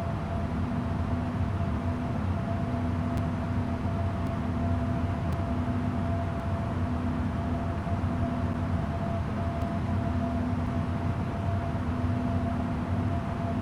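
Airbus A330-900 airliner with Rolls-Royce Trent 7000 engines running steadily: an even rumble, a constant hum and a low tone that pulses about once a second, holding level without spooling up.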